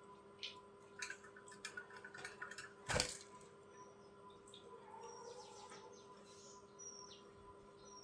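Budgerigars' small clicks and taps with a few brief high chirps, and one sharp knock about three seconds in.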